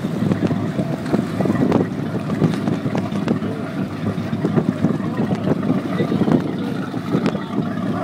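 Wind buffeting the microphone, a fluctuating low rumble, with a faint steady low hum underneath.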